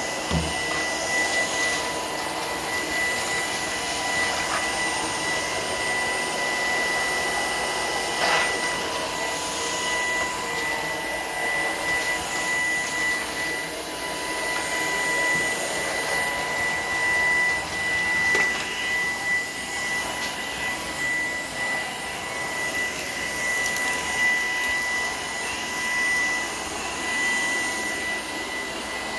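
Shark PowerDetect cordless stick vacuum running steadily over a floor, with a constant high whine over the rush of its suction, and a couple of brief clicks partway through.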